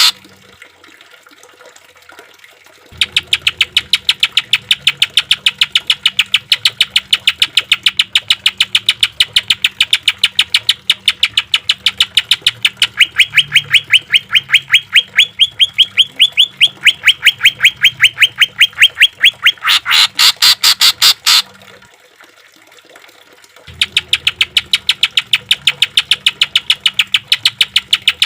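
Cucak ijo (green leafbird) singing a long rapid-fire 'tembakan' run: identical sharp notes repeated about ten times a second, starting about three seconds in. The notes step up slightly in pitch midway, break off for about two seconds near the end, then start again.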